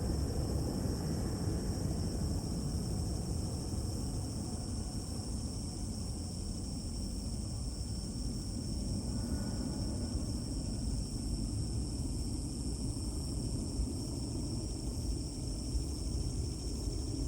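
A steady low rumble, easing a little partway through, under a continuous high-pitched insect drone.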